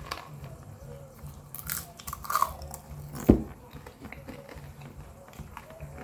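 Close-miked chewing and crunching of popcorn, with scattered crisp crunches and one sharp, loud crunch or knock a little past the middle.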